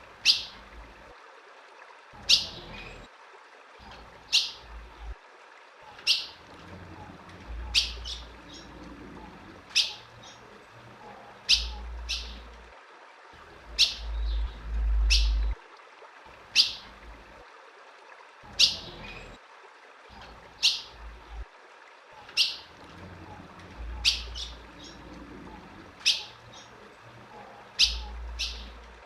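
Female ultramarine grosbeak (azulão) giving short, sharp chip calls, about one every two seconds, sometimes doubled. This is the female call played to stir male azulões into singing. A low rumble comes and goes underneath.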